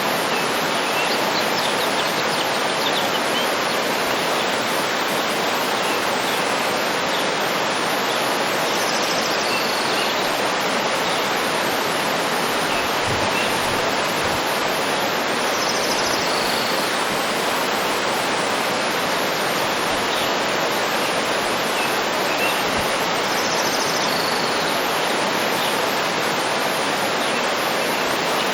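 Steady, even rushing of a waterfall, with a bird giving a short call that falls in pitch three times, about seven seconds apart, and a few faint chirps.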